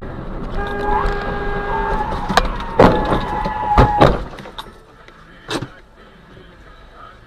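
Road collision picked up by a car's dashcam: a car horn sounds with a steady tone, then several sharp impacts of the crash come in quick succession around the middle. The horn stops with them, and one lighter knock follows.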